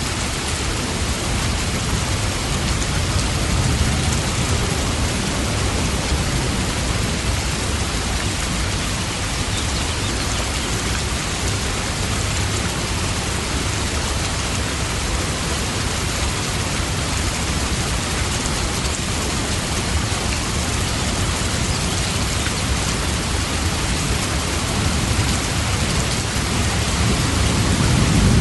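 Steady heavy rain falling, an even hiss of many drops. A low rumble swells a few seconds in and again near the end.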